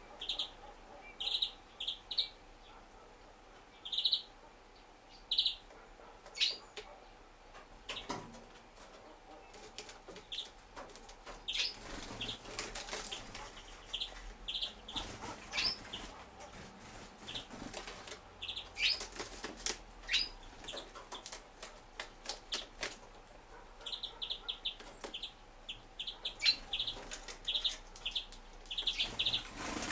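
Small birds at a wooden feeder: many short, high chirps repeated in quick clusters, mixed with bursts of rapid clicks and wing flutters as they land and feed.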